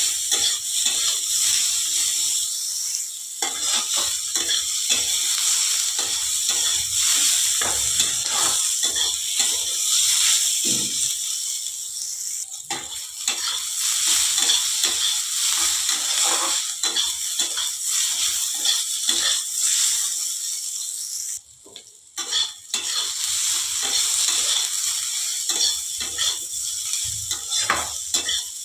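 Bitter gourd slices and onion sizzling in hot oil in a pan, stirred and scraped over and over with a spatula. There is a short break in the sound about three-quarters of the way through.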